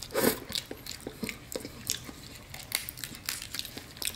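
Close-miked chewing and lip smacking as snow crab meat is eaten, heard as irregular short wet clicks.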